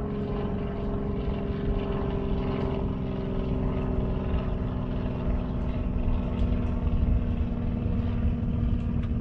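A motor's steady drone, with even pitched tones over a low rumble; the higher tone fades about three seconds in.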